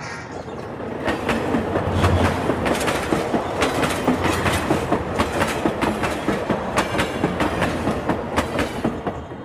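Train running along the rails, a dense rumble with a steady clickety-clack of wheels over rail joints. It builds up over the first second or two and drops away suddenly at the end.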